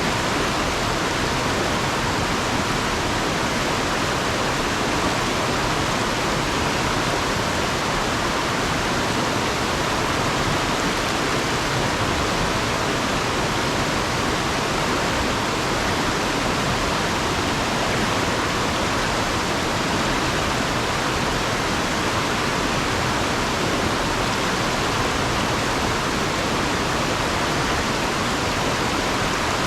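Fast river water rushing over and around rocks: a steady, even roar of flowing water.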